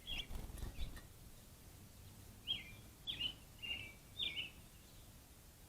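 Small songbird giving a string of short chirps, a couple in the first second and four more close together about halfway through. A low rumble runs under the first second.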